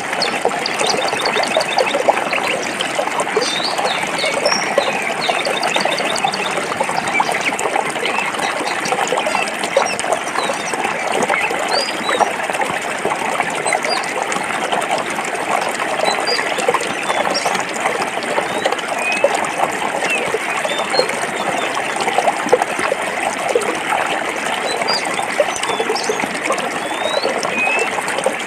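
Forest stream running and burbling over rocks, steady throughout. Short high bird chirps sound here and there over the water, a quick run of them in the first few seconds.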